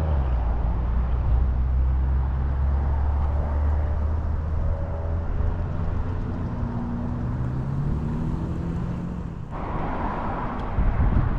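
Harley-Davidson motorcycle's V-twin engine running under way, a low drone whose pitch rises and falls gently with engine speed. About nine and a half seconds in, the sound switches abruptly to a more even rushing noise.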